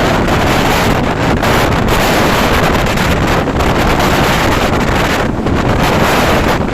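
Loud wind buffeting the microphone along with the rumble of a moving passenger train.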